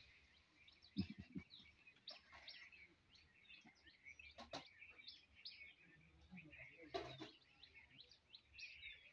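Faint chirping of small birds in the background: many short, quick calls scattered throughout. There are a few soft low knocks about a second in and a click near the middle.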